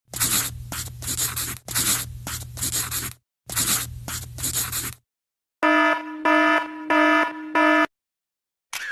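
Two sound effects played back to back. First a harsh rasping noise over a low hum, sounded three times. Then four short buzzer blasts, evenly spaced, like a wrong-answer buzzer.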